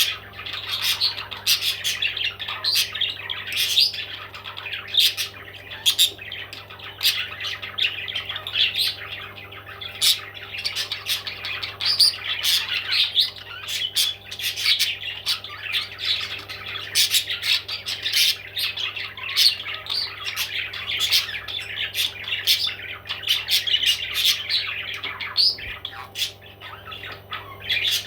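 Parrots squawking and chirping continuously, many sharp calls overlapping without a break.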